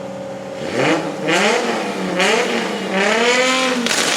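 Car engine idling, then revved hard several times, its pitch rising and falling with each blip. Near the end, rapid popping and crackling starts.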